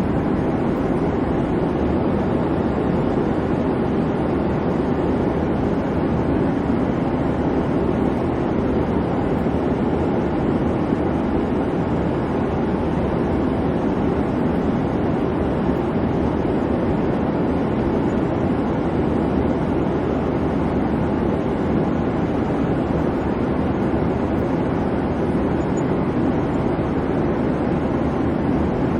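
Airliner cabin noise: a steady, even hum and rush of the engines and airflow, heaviest in the low-mid range, with no changes or separate events.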